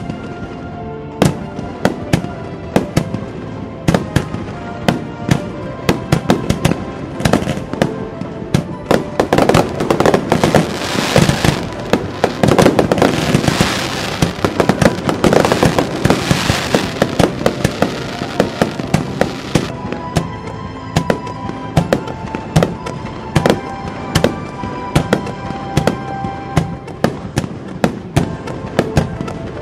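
Fireworks bursting in quick succession, many sharp bangs throughout, thickening in the middle into a dense barrage of bangs and crackling before thinning out again. Music plays underneath.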